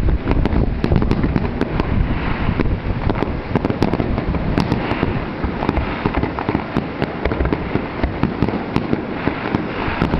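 Firework display: shells bursting in a rapid, continuous run of sharp bangs over a low rumble, with stretches of crackling between them.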